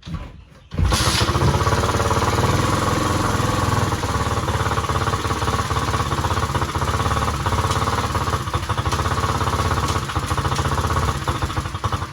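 Small dirt bike engine firing up about a second in and running steadily, then dying away at the end, while it is run through its four gears to check the clutch.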